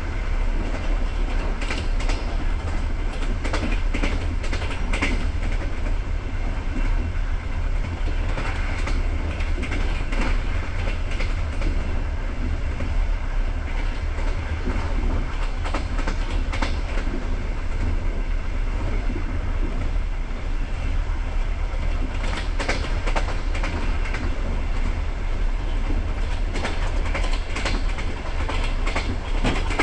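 Passenger train coach running along the line: a steady rumble of wheels on rails, with irregular clickety-clack clicks as the wheels cross rail joints, coming in clusters a few times.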